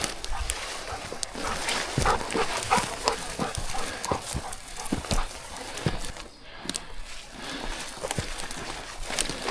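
Footsteps crunching and knocking irregularly over rocky, brushy ground as hunters walk a hillside, with wind buffeting the microphone.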